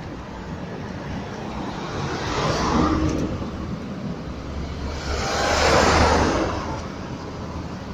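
Kia Sportage's engine running at the exhaust with a steady low hum. Two swells of louder rushing noise come through, about three seconds in and about six seconds in, the second the louder.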